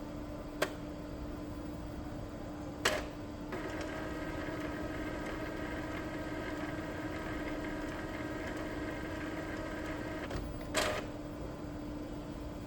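Epson L3256 inkjet printer mechanism working through a head-cleaning cycle: a few sharp mechanical clicks, then a motor whirring steadily for about seven seconds, ending in another click.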